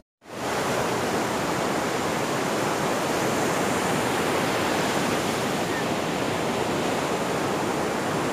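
Steady rush of sea surf breaking on the shore.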